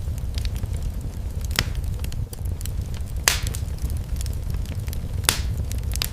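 Fireplace wood fire crackling over a steady low rumble, with many small ticks and three sharp, louder pops about two seconds apart.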